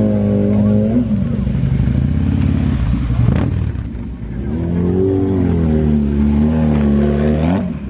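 Motorcycle engines running and revving. Near the end, one engine's pitch rises and falls for about three seconds, then cuts off suddenly.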